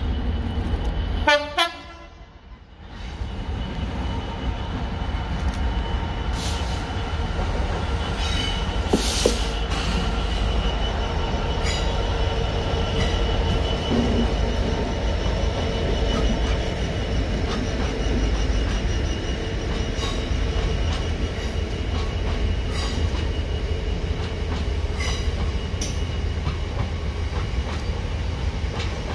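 A short locomotive horn blast about a second in. Then a Class 66 diesel freight locomotive passes hauling a long train of open box wagons: steady heavy rumble of the engine and rolling wheels, with a thin steady wheel squeal and occasional clanks from the wagons.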